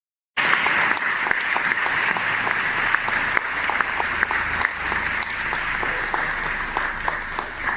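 Studio audience applause, a dense patter of many hands clapping. It starts suddenly about half a second in and keeps an even level.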